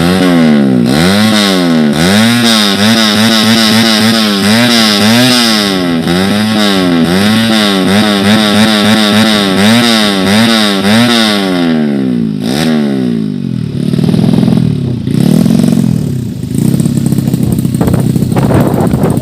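115cc underbone drag bike's four-stroke single-cylinder engine revved again and again, its pitch shooting up and dropping back roughly once a second. After about 12 seconds the revs fall off and it runs on with lower, uneven blips.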